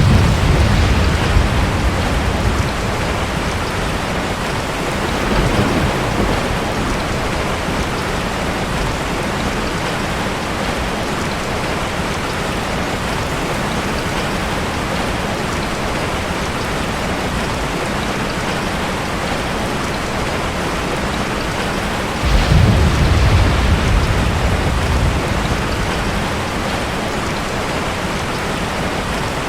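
Steady heavy rain, with rolls of thunder: one right at the start, a softer one about five seconds in, and a strong rumble about 22 seconds in that fades over a few seconds.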